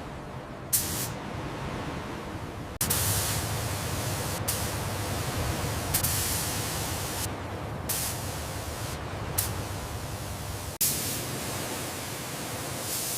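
A steady rushing hiss that changes level abruptly every second or two.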